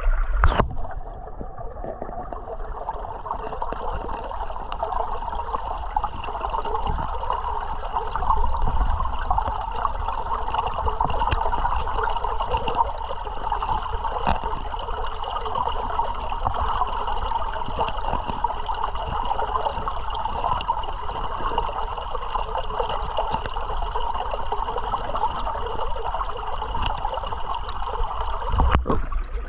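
Creek water running and splashing over rocks at a small waterfall, a steady even wash of sound.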